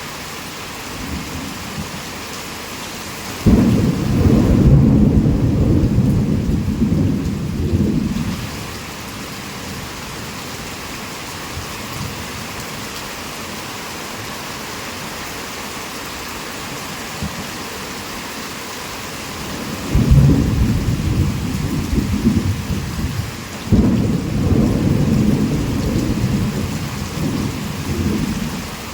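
Heavy rain falling steadily, with thunder rumbling in three loud low rolls: one a few seconds in, lasting about four seconds, and two more close together in the last third.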